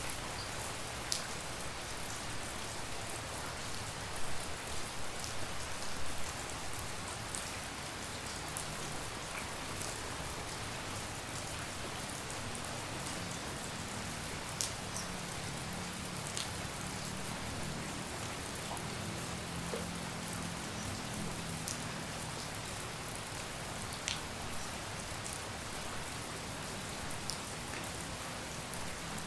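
Steady rain falling, with single drops now and then striking something nearby in sharp ticks. A faint low hum comes in through the middle.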